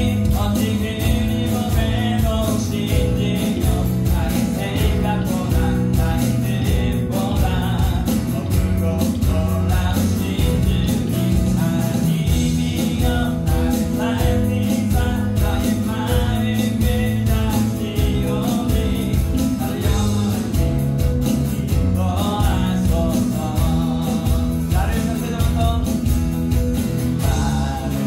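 Live worship band playing a praise song: a singer with acoustic guitar, keyboard, bass guitar and electronic drums keeping a steady beat.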